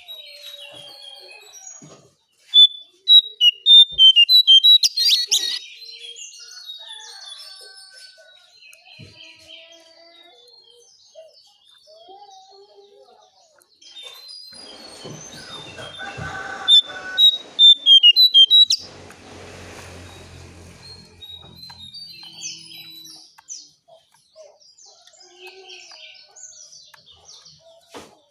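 Cingcoang coklat (jongkangan) singing quick runs of short, high chirped notes and trills, loudest in two bursts, played as a lure song for cage birds. A hiss with a low hum runs under the song in the middle.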